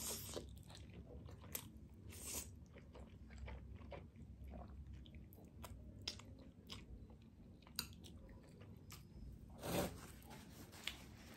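Close-miked eating of spicy ramen noodles: noodles slurped in with soft, wet chewing and scattered mouth clicks. Near the end there is a brief rustle as a tissue is pulled from its box.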